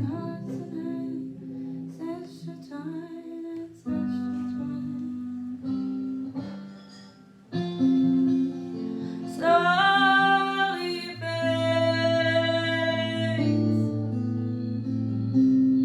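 A woman singing slowly over acoustic guitar chords, with a long sustained note about ten seconds in that she slides up into.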